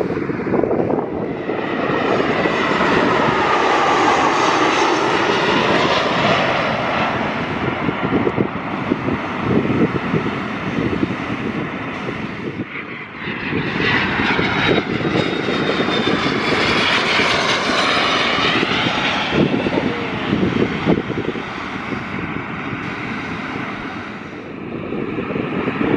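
Two jet aircraft passing one after the other: a Frontier Airbus A320's jet engines, then a private business jet about halfway through. Each swells and fades with a shifting whine over a rushing roar.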